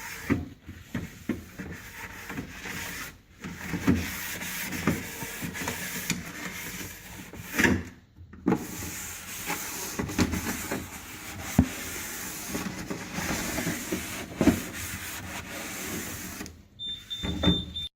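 Cloth scrubbing the sprayed inside wall of a refrigerator: a continuous rubbing with short pauses and occasional knocks.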